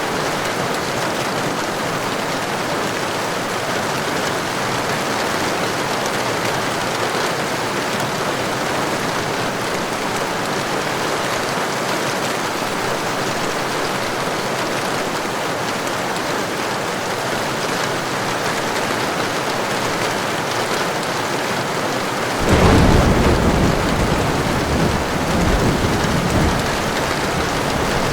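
Heavy rain falling steadily. About two-thirds of the way through, thunder breaks in suddenly and rumbles low for several seconds, louder than the rain, with a second swell before it fades back.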